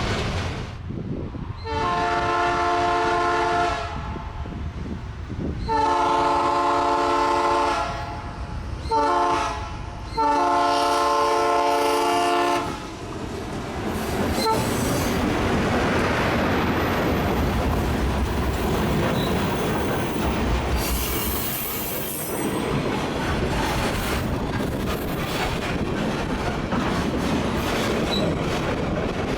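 Diesel freight locomotive horn sounding four blasts: two long, one short and a final long one. It is followed by the steady rumble and wheel clatter of the freight train rolling past.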